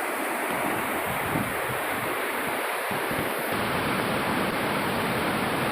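Steady rush of water flowing at the dam.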